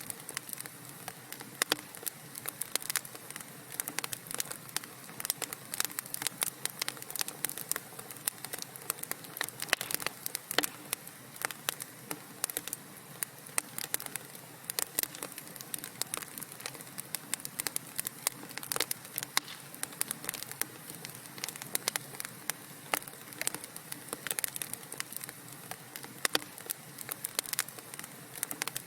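Wood fire crackling and popping: dense, irregular sharp snaps over a steady soft hiss.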